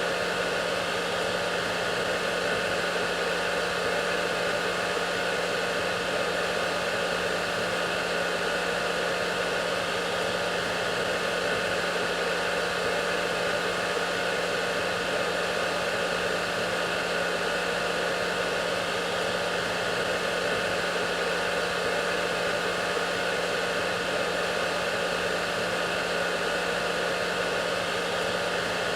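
Hair dryer running steadily: an even rush of air with a constant motor hum and whine underneath.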